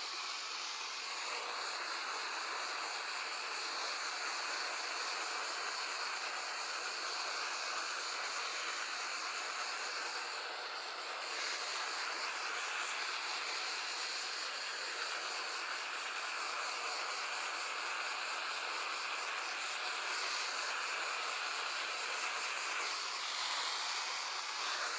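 Heat gun blowing steadily, shrinking heat-shrink tubing over the cracked insulation on the ignition coils.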